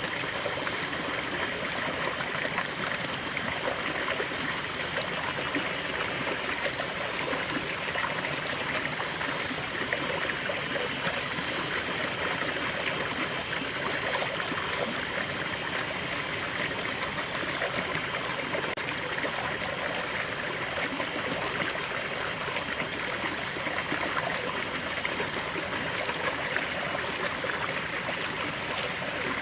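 Small waterfall and stream flowing steadily: an even rush of water with fine trickling and splashing detail, no changes throughout.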